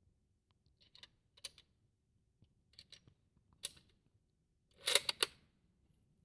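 Metallic clicks of a Mauser 98 bolt-action rifle being handled and its bolt worked: a few light, separate clicks, then a quick, louder run of three or four clicks about five seconds in.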